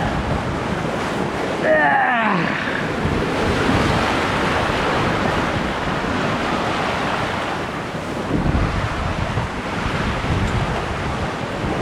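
Wind buffeting the microphone and water rushing past the hull of a sailboat under sail, a steady rushing noise that swells and eases. About two seconds in, a brief pitched sound slides up and down over it.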